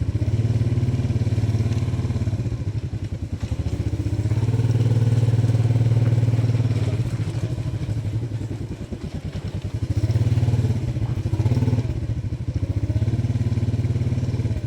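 Motorcycle engine running while riding, its note swelling and easing off several times as the throttle is opened and closed.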